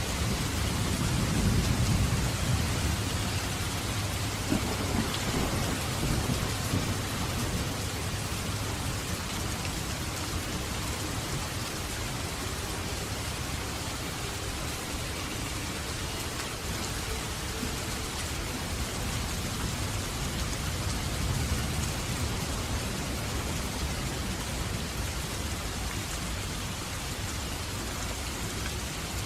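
Steady rain falling, with a low rumble of thunder in the first several seconds that is loudest about two seconds in and then dies back under the rain.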